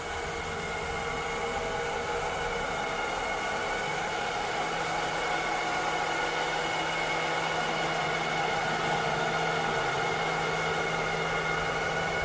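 Cleaning robot's motor running with a steady whir, a low hum under several higher whining tones, unchanging throughout.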